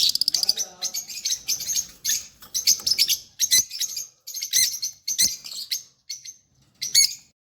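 Lovebirds chirping and calling shrilly in a flurry of short, rapid chirps, thinning to scattered bursts with short pauses in the second half.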